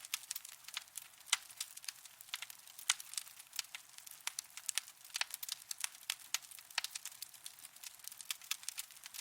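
Wood fire burning in a fireplace, crackling with irregular sharp pops, several a second, over a soft hiss.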